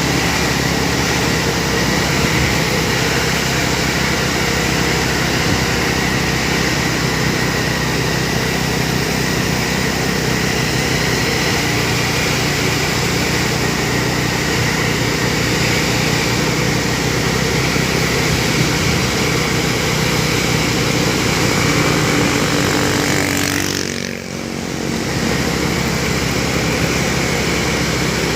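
Heavily loaded diesel truck engine running steadily under load, with a brief drop in level near the end before it picks up again.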